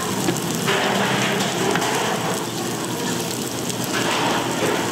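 Food sizzling and crackling in hot oil on a pan or griddle. The sizzle swells louder about a second in and again near the end.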